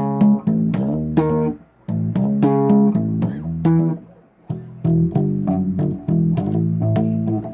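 Bass guitar played in a loose riff: a run of plucked notes, some sliding or bending in pitch, with short breaks between phrases about two and four seconds in.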